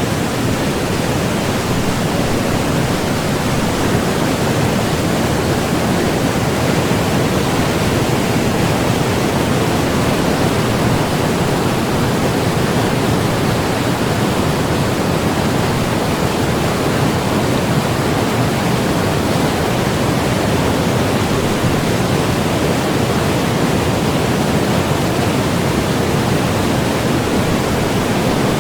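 Loud, steady rush of white water on the Kolvitsa River, a fast river full of rapids.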